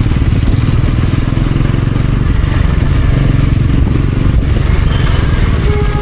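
Bajaj Pulsar NS400Z's single-cylinder engine running steadily while riding. A steady higher-pitched tone joins near the end.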